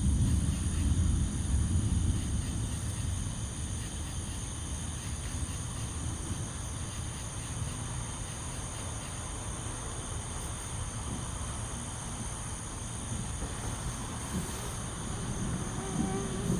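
Distant thunder rumbling low, loudest in the first couple of seconds and dying away, then building again near the end. A steady chorus of crickets or other insects shrills high over it.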